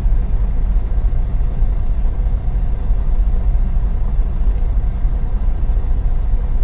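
Truck engine idling steadily, heard from inside the stopped cab as a constant low rumble.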